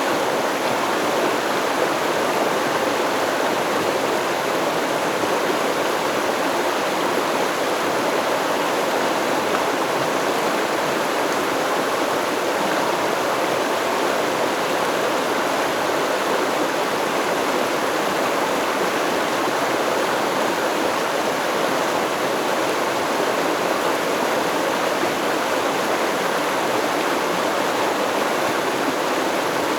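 A stream flowing steadily, an even rush of running water that does not change.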